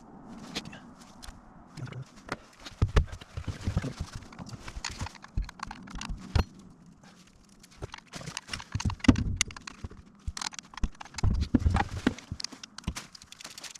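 Irregular knocks, clicks and clatter, with a quieter lull just past the middle.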